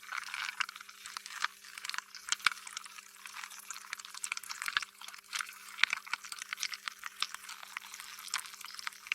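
Slime being squished and worked by hand: a dense, irregular run of sticky squelching clicks and pops.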